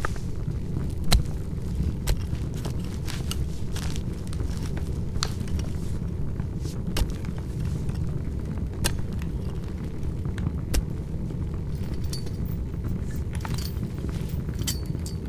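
Large open fire burning: a steady low rumble with irregular sharp crackles and pops, the loudest pop about a second in.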